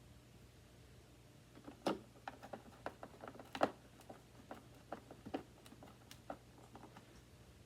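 Hard plastic parts of a Hoover WindTunnel 2 upright vacuum being handled: a run of light clicks and knocks, starting about two seconds in and dying away a second before the end, with two louder knocks among them.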